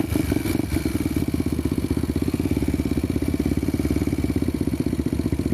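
Trail motorcycle engine idling steadily with an even, rapid pulse.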